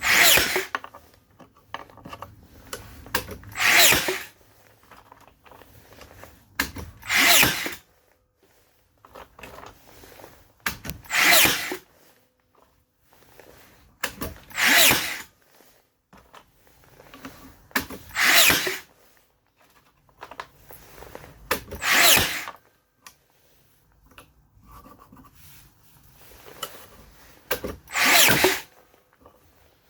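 Makita DBN600 cordless finish nailer cycling in short loud bursts, about every three and a half seconds with a longer gap near the end, and quieter handling noises between. The tool is misfiring.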